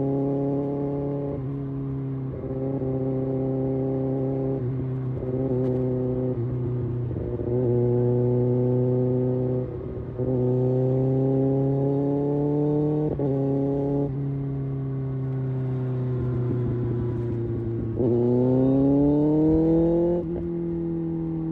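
Kawasaki Ninja ZX-6R's inline-four engine and exhaust under riding load. The pitch climbs in a series of pulls, dropping back and starting again several times, with a sharper, louder climb about eighteen seconds in.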